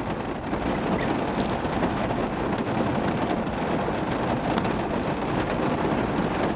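Steady rain falling on a pickup truck, heard from inside the truck.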